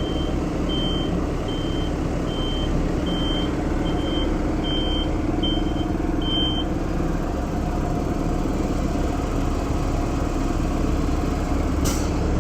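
Tractor diesel engine running steadily while a reversing alarm gives evenly spaced high beeps, about three every two seconds, stopping about seven seconds in: the tractor is backing up.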